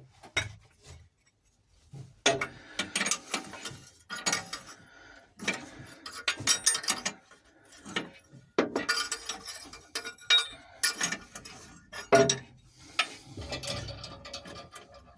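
Hand tools working on a boat engine's mount nuts: irregular metallic clicks, clinks and ratcheting, the loudest knock near the end.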